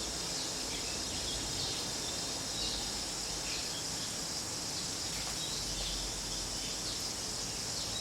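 Steady outdoor garden ambience: a continuous high insect drone with a few faint, brief chirps scattered through it.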